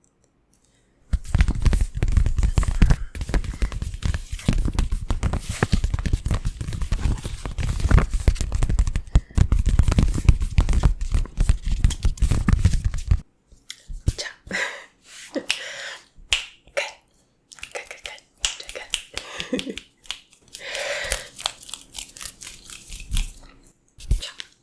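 Close-microphone ASMR trigger sounds: about twelve seconds of dense rubbing and scratching against the microphone, then scattered soft clicks and taps.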